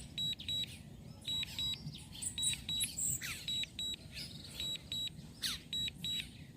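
A drone remote controller's warning alarm: high electronic beeps in pairs, repeating about once a second. Short falling bird chirps sound in between.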